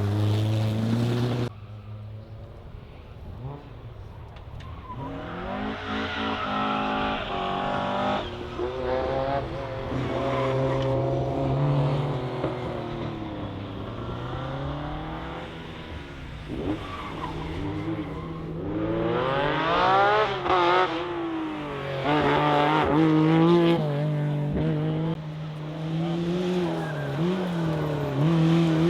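Rally car engines revving hard, the pitch climbing and falling again and again through gear changes. There is an abrupt change in sound about a second and a half in.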